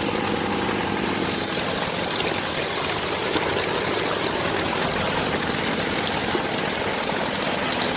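Water running in a steady, continuous stream, as from the outlet of a small water pump.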